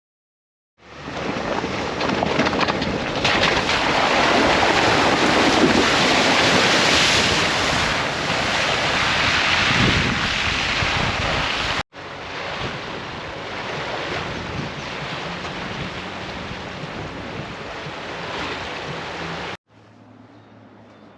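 Steady roar of a waterfall in heavy snowmelt flow, described as raging, mixed with wind noise on the microphone. The sound cuts off abruptly twice, the second stretch a little quieter and the last seconds much quieter with a low hum.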